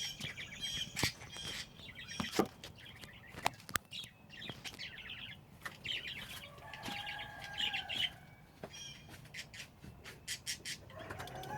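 Small birds chirping repeatedly, with scattered sharp clicks.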